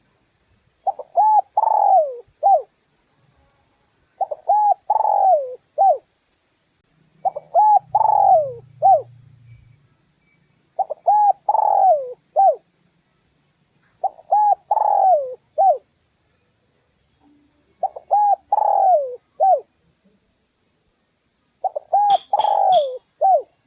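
Spotted dove cooing its repeated call, seven phrases a few seconds apart. Each phrase is two short coos, a longer falling coo and a short final note.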